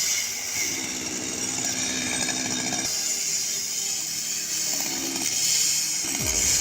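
Chainsaw running and cutting, its engine note shifting up and down several times, with a brief low falling rumble near the end.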